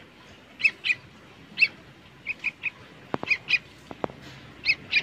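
A bird giving short, sharp calls over and over, about ten in all and often in quick pairs, with a few faint clicks between them.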